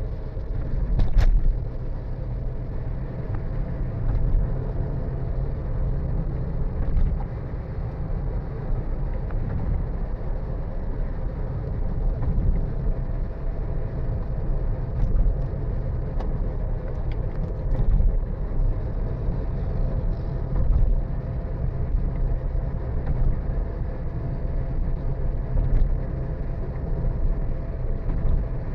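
Steady rumble of a vehicle driving along a road, engine and tyre noise with a faint constant hum running through it. A few brief knocks stand out, the clearest about a second in.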